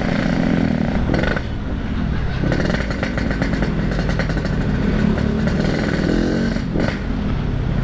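Yamaha RX-King 135cc two-stroke single-cylinder engine running through a custom exhaust while riding, its note rising and falling as the throttle is opened and eased off, with dips about a second and a half in and again near the end.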